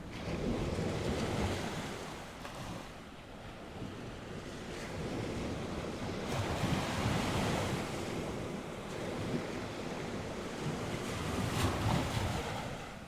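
North Sea waves washing onto the shore, surging in three swells, with wind gusting across the microphone.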